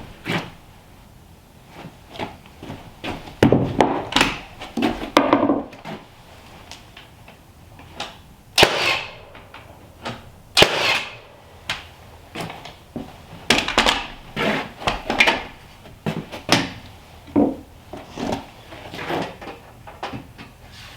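Irregular wooden knocks, clunks and scrapes of timber and tools being handled during carpentry work, with louder sharp knocks about 8 and 10 seconds in.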